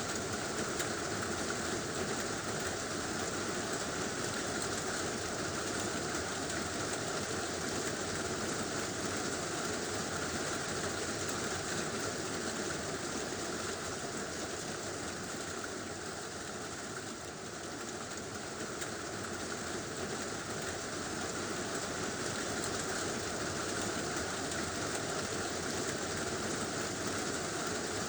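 Heavy rain drumming steadily on a tin roof, a dense unbroken patter that eases slightly for a moment a little past halfway.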